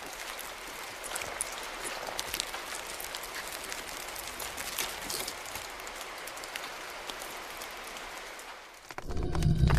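Water splashing and trickling over rocks: a steady hiss dotted with many small sharp drips and splashes.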